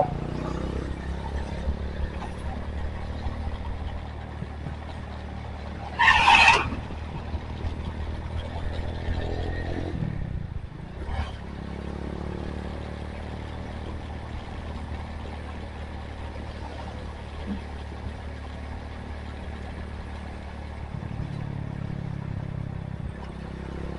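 Honda Tiger single-cylinder motorcycle engine running steadily under way. About ten seconds in its pitch falls and drops away briefly, then picks up again. A short, loud, high-pitched sound stands out about six seconds in.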